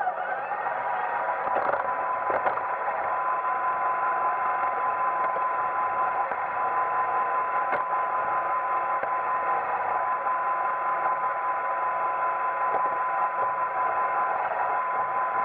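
Roomba 880 robot vacuum running: a steady whirring rush with a constant high whine from its motor, and a few brief knocks near the start and about eight seconds in.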